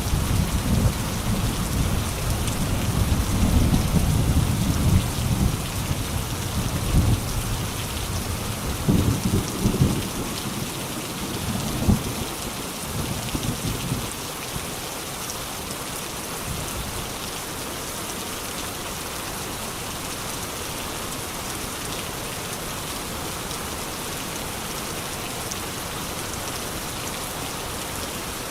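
Steady rain falling, with thunder rumbling low through the first half, swelling several times before dying away about fourteen seconds in; after that only the rain.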